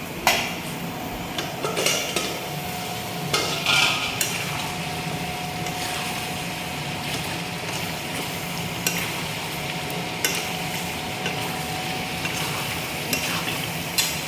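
Curry frying and sizzling in a pan while it is stirred: a steady sizzle, with a spoon scraping and knocking sharply against the pan every so often, most often in the first few seconds.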